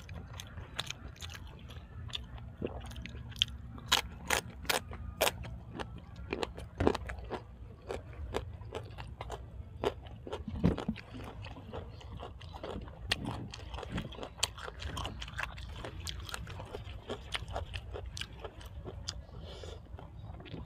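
A person chewing and biting food close to the microphone, with irregular crunches throughout and a quick run of sharper crunches about four to five seconds in.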